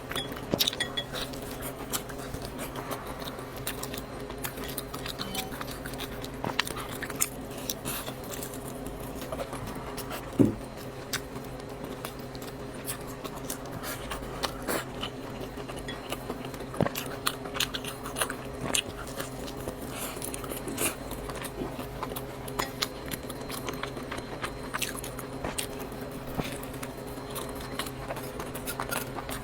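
Close-miked mukbang eating: chewing and biting of noodles with wet mouth clicks, and now and then utensils knocking against a bowl, the sharpest knock about ten seconds in. A steady low hum runs underneath.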